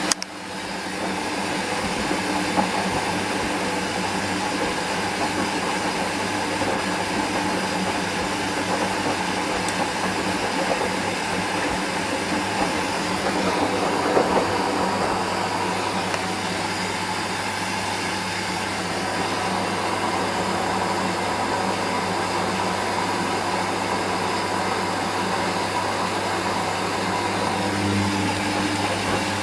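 Hoover Dynamic washing machine running steadily during its fourth rinse, with a constant motor hum under an even mechanical whoosh.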